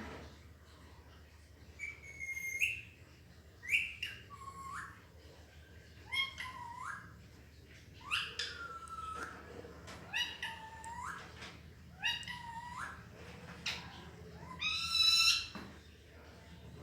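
Pet parrot repeatedly calling out a two-syllable word, "mami", in a squawky talking voice. The calls come in short pairs about every two seconds, the loudest near the end.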